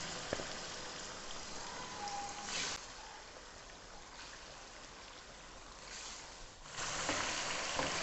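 Raw chicken pieces frying in hot oil in an aluminium pot, a steady sizzle that weakens in the middle and grows louder again near the end.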